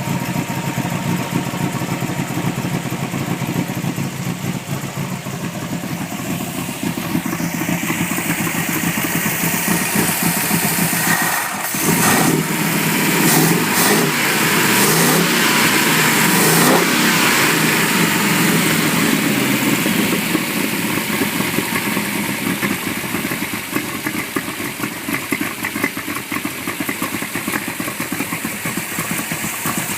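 Engine of a 1936 International Harvester C-1 hot rod truck running. It gets louder for several seconds starting about eleven seconds in, then settles back to a steady run.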